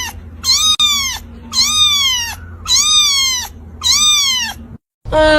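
A cat meowing over and over, about once a second, each meow high-pitched and falling in pitch.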